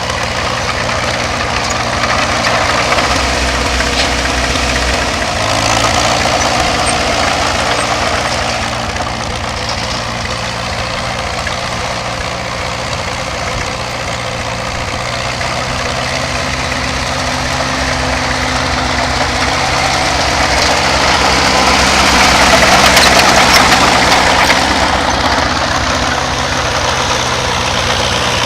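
Engine of a 1951 Oliver OC-3 crawler tractor, a four-cylinder Hercules, running steadily, growing louder for a few seconds late on before settling back.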